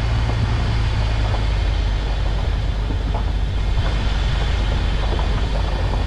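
1998 Jeep Cherokee's engine running steadily as the vehicle is driven, with a low hum under road noise.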